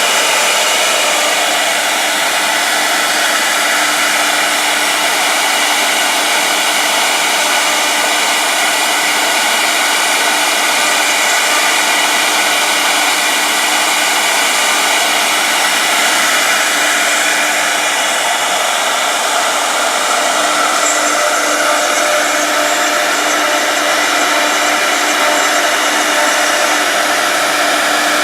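Two-head CNC router running: a loud, steady whine of the spindles with a constant rushing noise, unchanging throughout.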